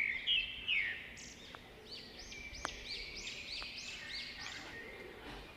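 Small birds chirping: a run of quick, repeated arching chirps, about three a second, over a thin high steady tone, with a couple of faint clicks.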